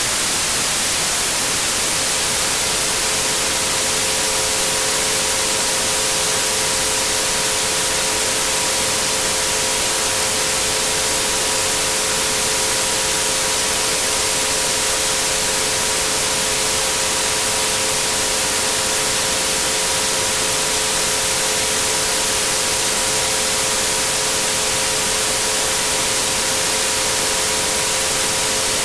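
Steady white noise with three pure tones held beneath it, at 432, 528 and 963 Hz. The tones come in about a second in and do not change.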